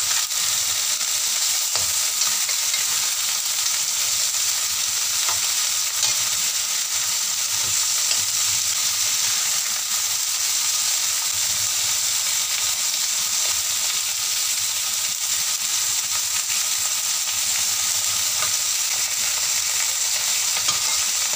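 Chicken pieces sizzling steadily as they fry in oil with ginger and garlic in a stainless steel wok, being seared dry on both sides. A metal spatula scrapes and clinks against the wok now and then as the pieces are turned.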